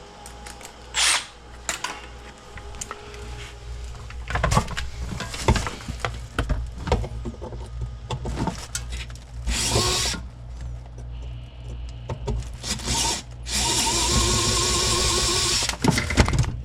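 Cordless power drill/driver running in short bursts, with one longer run of about two seconds near the end, while screws are backed out; clicks and knocks of handled parts between the runs.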